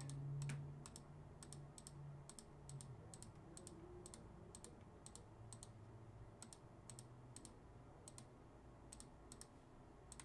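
Faint typing on a computer keyboard: light, irregular keystroke clicks, about two or three a second, over a low steady hum.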